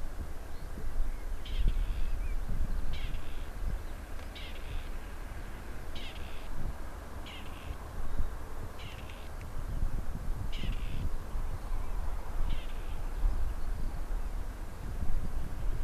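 A bird calling with short, harsh calls, about eight times at roughly one-and-a-half-second intervals, over a low rumble.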